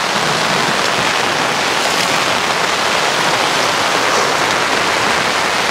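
Heavy rain falling steadily on the fabric canopy and awning overhead, an even, unbroken hiss.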